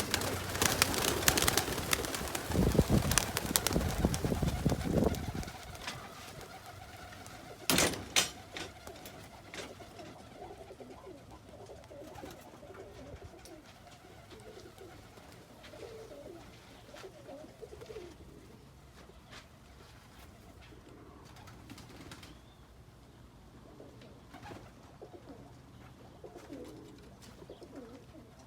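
Young roller pigeons: a burst of rapid wing flapping for about the first five seconds as the kit takes off, a single sharp clap near eight seconds, then soft pigeon cooing with scattered small clicks.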